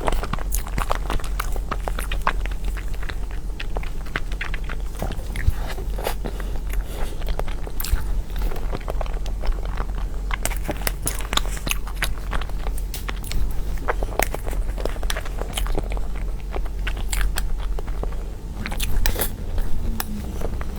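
Close-miked chewing and biting of soft cake, full of quick wet mouth clicks throughout, over a steady low hum.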